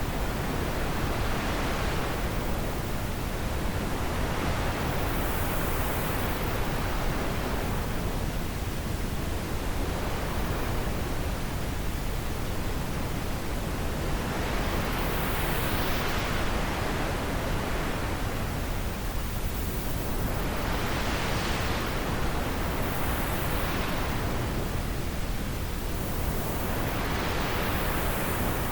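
Wind blowing as a steady rushing noise that swells and eases every few seconds, as gusts come and go.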